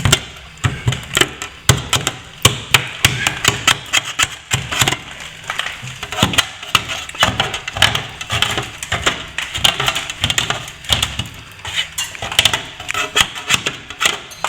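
A metal hand tool knocking and scraping at a plaster wall, in quick irregular strokes, chipping loose plaster and paint out of a crack.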